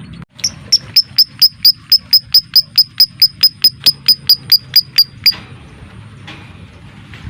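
Lovebird giving a long chattering 'ngekek' call: an even, rapid series of about twenty sharp high chirps, four to five a second, that stops about five seconds in, followed by fainter scattered chirps.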